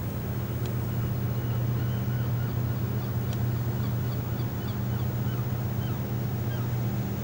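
Ship's engines running: a steady low hum with a strong even pitch, with faint short high chirps above it.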